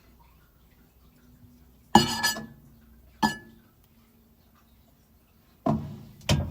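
Kitchenware clinking and knocking: a sharp clatter about two seconds in, a single clink a second later, then more knocks near the end.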